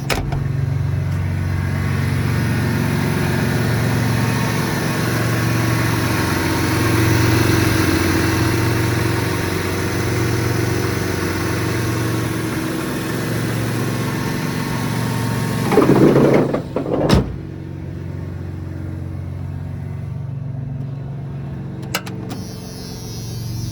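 The 1995 Ford F-150's 4.9-litre straight-six idling cold, its drone swelling and fading about once a second; the owner says it does not want to run in the cold. About sixteen seconds in there is a loud rustle and thump, after which the engine sounds quieter and duller, with a small click near the end.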